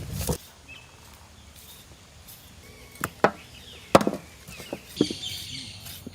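Several sharp, irregularly spaced chopping knocks, the loudest about four seconds in.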